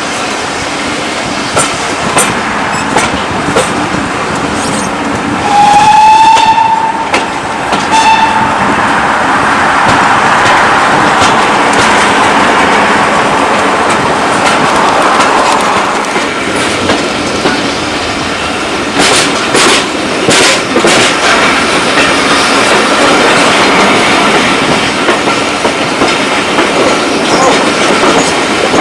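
Heritage railway train running on the line, wheels clicking over the rail joints. Its whistle sounds about six seconds in, one longer blast then a short one.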